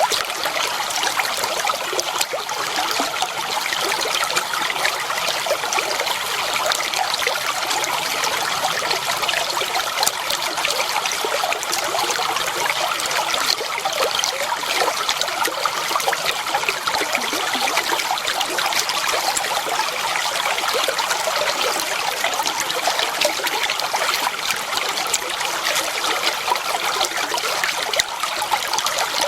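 Flowing water trickling and splashing steadily, with an even rush full of fine, quick splashes and no change in level.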